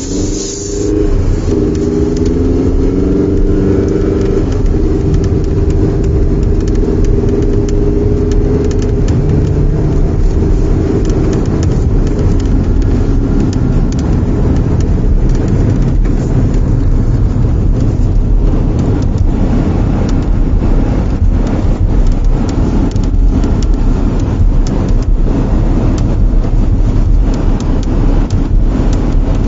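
Inside the cabin of a 2020 Hyundai Santa Fe while driving: engine and road noise, with the engine note rising as the car speeds up in the first few seconds, and repeated small clicks from the dashboard's center stack, more frequent in the second half. The clicking is a trim rattle that turns up when the car is cold and was not cured by replacing the trim around the heated-seat buttons.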